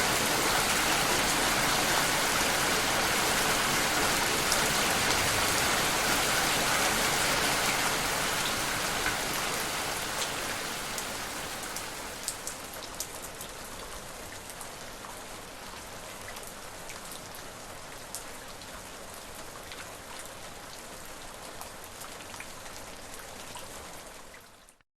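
Steady rain, dense and heavy at first, easing over the middle into lighter rain with single drops heard separately. It cuts off abruptly just before the end.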